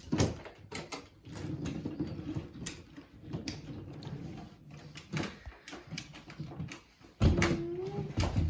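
Toy cars being handled: scattered knocks and light clatter over a low rumble, with a louder bump about seven seconds in that carries a short pitched sound.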